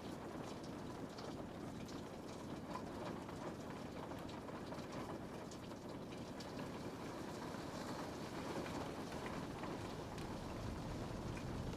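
Steady rain falling on a window pane: an even hiss with scattered small tapping drops.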